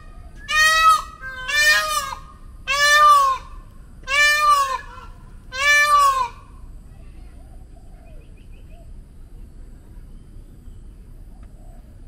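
A large bird giving loud, repeated calls, five in a row about a second apart, each rising and falling in pitch. The calls stop about six seconds in.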